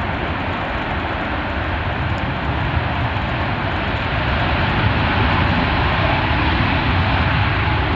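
Airbus A380-861's four Engine Alliance GP7200 turbofans: a loud, steady jet rumble that grows gradually louder.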